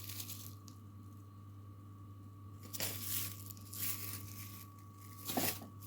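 Faint crinkling of a plastic food package, a herring-fillet pack, being handled and turned over, in a few short rustles over a steady low hum.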